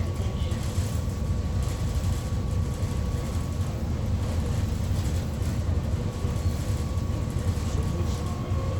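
Steady low rumble of a ferry's engines, heard aboard, with a faint constant hum over it.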